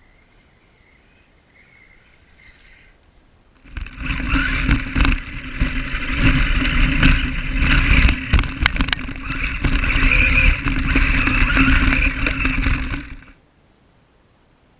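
Foxx S911 electric RC monster truck driving hard close by: a steady motor and gear whine, with tyres rattling and knocking over rough ground. It comes in about four seconds in and cuts off suddenly near the end.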